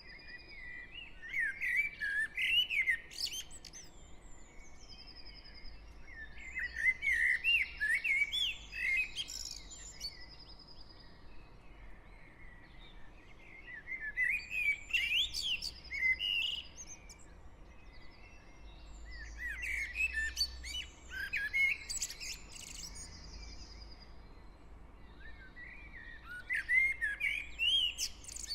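Dawn chorus of garden birds. One nearby songbird sings a loud warbling phrase of two to three seconds about every six seconds, five times, while fainter birds trill higher up in the gaps. A faint low hum of distant traffic lies underneath.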